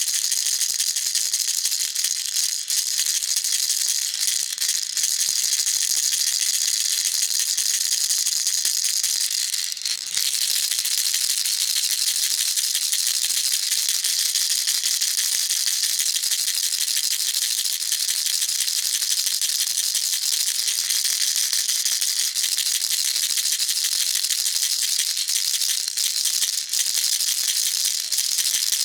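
Baby rattle shaken continuously: a dense, rapid rattle of small pellets inside a toy, steady throughout, with a brief break about ten seconds in.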